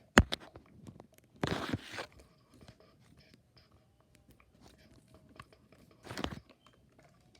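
A sharp click, then two short scraping bursts and scattered faint clicks of objects being handled.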